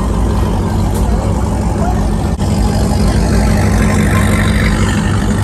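Truck engine running steadily with a low hum.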